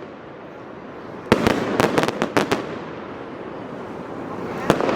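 Fireworks going off: a quick string of sharp bangs and crackles about a second in, echoing and dying away into a rumble, then another burst of bangs near the end.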